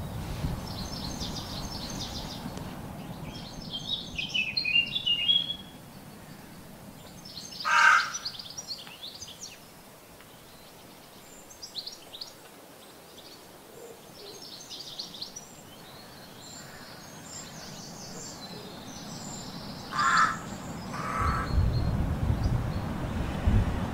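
Birds calling: repeated high chirps and trills, with a louder, harsher call about a third of the way in and two more near the end, over a low background rumble.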